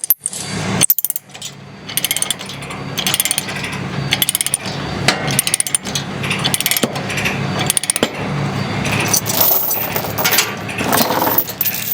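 Ratchet chain binder being cranked to tighten a tie-down chain, its pawl clicking in quick runs, with an engine idling steadily underneath.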